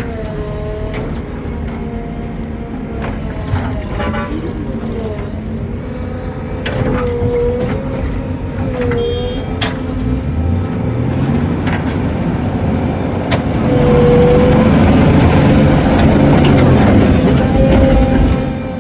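Heavy diesel vehicle engine running, revving up about ten seconds in and then working hard and loud for several seconds before easing off near the end.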